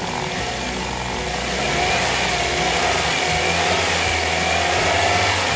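Car engine idling steadily, mixed with background music.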